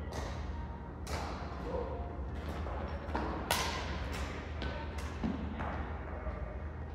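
Badminton rally: rackets striking a shuttlecock again and again, sharp hits spaced roughly a second apart, each with a short echo, over a steady low hum.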